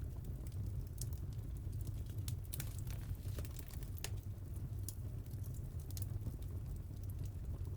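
Wood fire burning in a fireplace: a steady low rumble of the flames with irregular small crackles and pops, a cluster of them around the middle.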